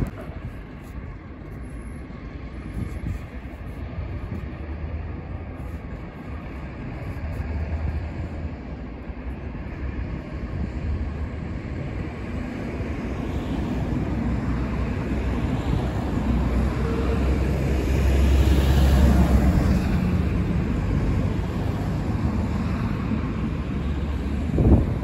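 A train passing, a low rumble that builds to its loudest about three-quarters of the way through, then eases slightly. A brief low thump near the end.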